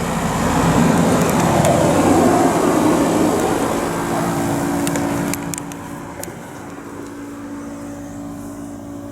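Outdoor unit of a Midea MSY-09HRDN1 DC inverter split air conditioner running: a loud fan rush swells and fades over the first five seconds, leaving a steady low hum. The noise is very loud.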